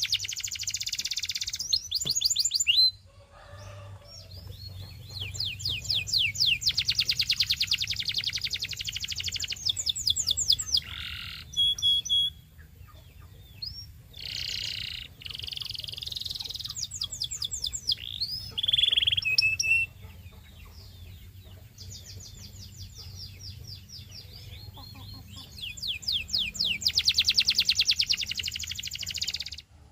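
Canary singing: phrases of very fast rolling trills, broken by short pauses, with a few short clear whistled notes between them.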